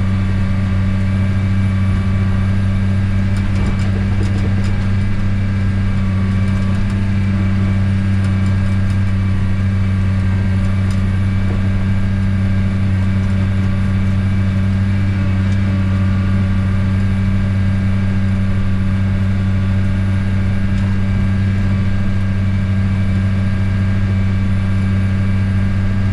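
Komatsu D51PX crawler dozer's diesel engine running steadily under working load, heard from inside the cab as an even, unbroken low drone. It is loud in the cab because the door, refitted after its glass was broken, is not sealing properly.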